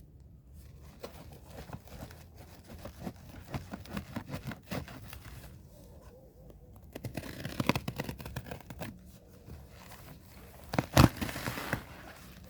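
Cardboard shipping box being opened by hand: packing tape and cardboard tearing, packaging rustling and scraping, with the loudest rip about eleven seconds in.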